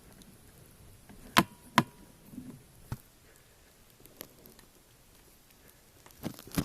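A few sharp clicks and knocks over quiet room tone, the two loudest close together about a second and a half in, with fainter ones following and a small cluster near the end.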